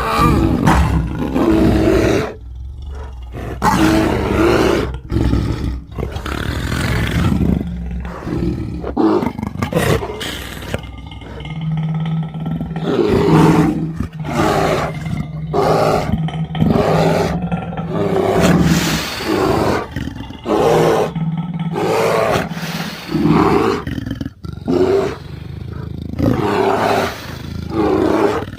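A string of loud roars and snarls, one after another, used as a cartoon bulldog's voice and made from big-cat and other wild-animal sound effects. A low steady hum runs under the middle stretch.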